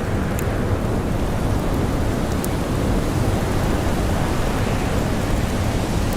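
Steady, low rushing wind of a blizzard, with a few faint sharp crackles from a campfire.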